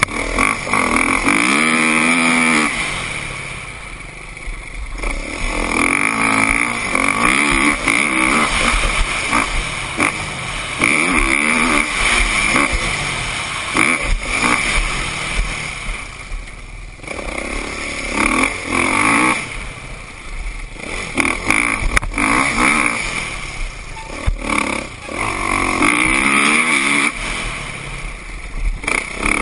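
Kawasaki KX450F motocross bike's single-cylinder four-stroke engine being ridden hard, revving up and falling back again and again as the throttle opens and closes through the gears, with the sound swelling and dropping away several times.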